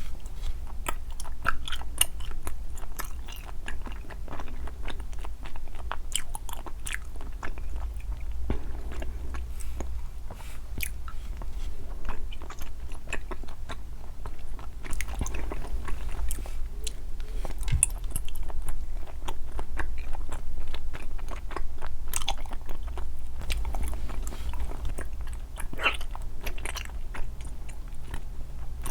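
Close-miked ASMR eating: biting and chewing sweets (jelly candies and chocolate balls), with many short crisp crunches and clicks scattered throughout.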